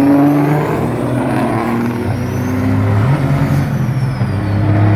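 Large diesel engine running hard under load, a deep steady drone whose pitch shifts upward about three seconds in.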